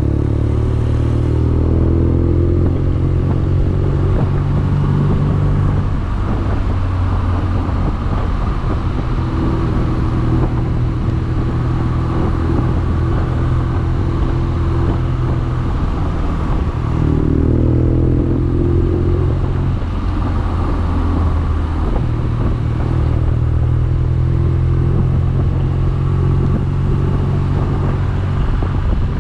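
BMW R nineT's 1170 cc boxer twin engine running under way, loud and steady. Its pitch climbs twice, near the start and at about 17 seconds.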